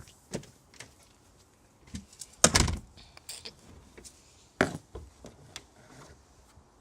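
Several sharp knocks and thuds, the loudest about two and a half seconds in and another strong one near five seconds, with a few lighter clicks between.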